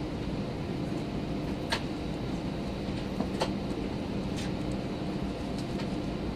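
Steady cabin noise of an Airbus A319 airliner: the engines and air system humming, with a few steady tones. A few light clicks or knocks come through over the hum, the sharpest two close together a little past the middle.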